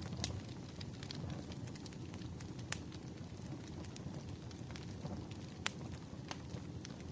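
Wood fire burning: a steady low rush with crackles and sharp pops scattered through it, a few louder snaps standing out.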